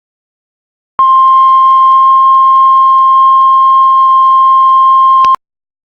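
Heart monitor flatline: one steady, high, unbroken beep tone that starts about a second in, holds for about four seconds and cuts off suddenly. It is the monitor's sign that the heartbeat has stopped.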